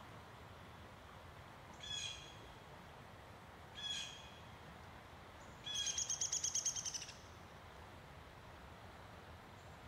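A bird calling: two short calls about two seconds apart, then a longer, louder call made of rapid pulses, about ten a second, near the middle. A faint steady hiss lies underneath.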